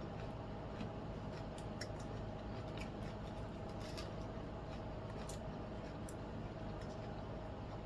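Someone eating close to the microphone: quiet chewing with scattered faint crisp clicks, over a steady low room hum.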